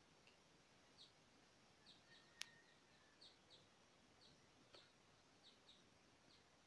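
Faint background bird chirping: short high chirps, often in pairs, about every half second, with one sharp click about two and a half seconds in.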